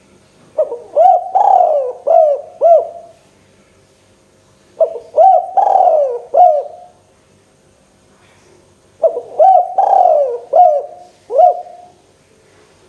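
Spotted dove (tekukur) singing vigorously: three cooing phrases a few seconds apart. Each phrase is four or five short rising-and-falling coos.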